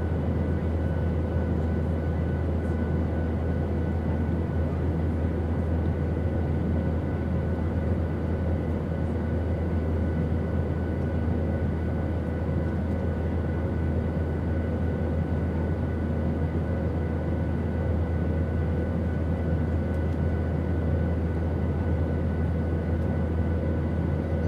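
Steady airplane noise: an even, unchanging rumble with a faint whine of several steady tones over a hiss.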